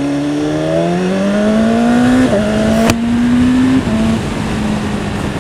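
BMW S1000RR's inline-four engine pulling through the revs under acceleration, the pitch dropping about two seconds in at a gear change, climbing again, then easing off near four seconds in to a steady note. A single sharp click about three seconds in, with rushing wind noise throughout.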